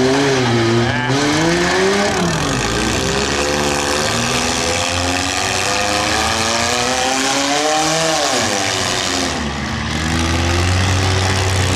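Demolition derby compact cars' engines revving, the pitch rising and falling, climbing to a high rev about eight seconds in and then dropping, over a steady low engine drone.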